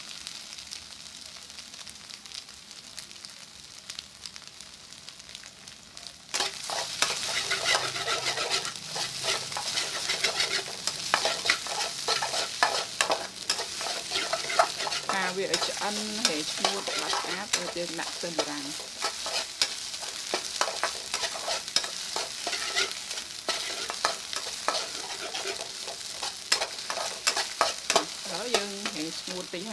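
Scrambled duck egg sizzling in a metal wok while a metal ladle stirs it, scraping and clicking against the pan. Quieter for the first several seconds, then louder and busier with stirring from about six seconds in.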